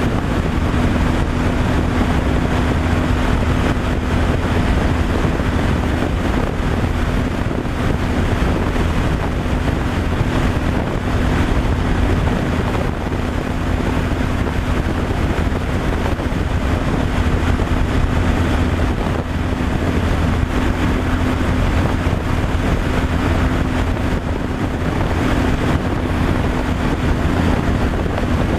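Truck cruising on the highway: a steady engine and road drone with a constant low hum, and wind buffeting the microphone.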